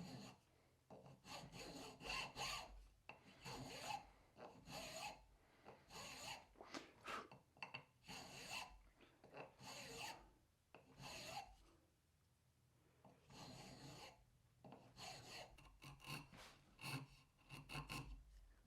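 Repeated back-and-forth strokes of a hand tool cutting into a canary-wood plane body. The strokes come in irregular runs, each shorter than a second, with a pause of about two seconds partway through.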